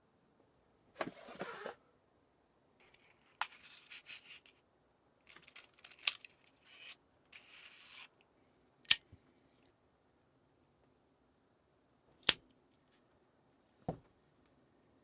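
Things being handled at close range: bursts of rustling, several sharp clicks and snaps, the loudest two about 9 and 12 seconds in, then a dull knock near the end.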